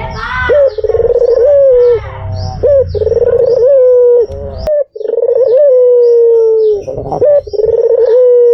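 White ringneck dove (puter putih) cooing over and over, with long rolling, wavering coos of about a second each and a brief cut about five seconds in.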